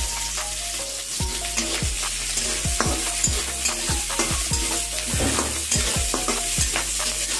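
Peas and freshly added curry leaves sizzling in hot oil in a metal kadai, while a metal spatula stirs and scrapes against the pan in quick, irregular strokes.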